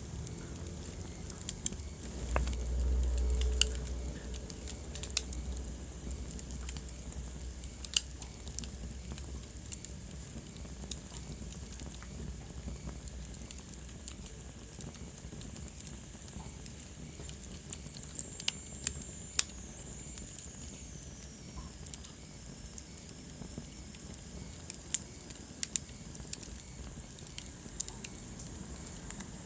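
Wood fire crackling in a fireplace: a steady soft hiss with irregular sharp pops and snaps. A low rumble swells briefly a few seconds in, and later a faint high whistle slides slowly down in pitch.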